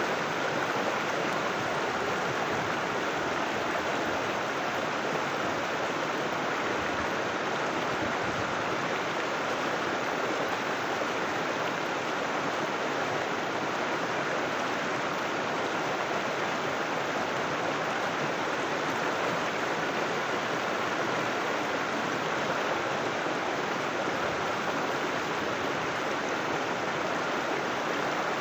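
River water rushing steadily over rocks, a constant even flow with no breaks.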